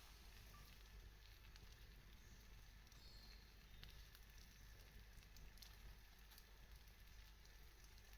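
Faint crackling of a wood campfire, scattered small pops over a low steady hiss.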